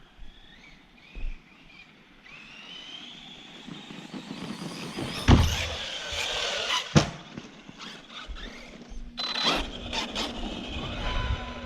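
Arrma Kraton 4S RC truck's brushless motor whining as it speeds up, the pitch rising over a few seconds, with two loud thuds about five and seven seconds in and a cluster of sharper knocks later on.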